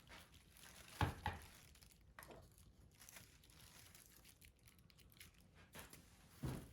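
Faint handling noises: two soft knocks about a second in, another just after two seconds, and one more near the end, with light rustling between.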